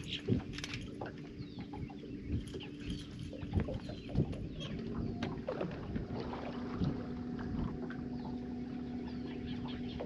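Birds calling over open water, with a few sharp knocks, and a steady low hum that comes in about five seconds in.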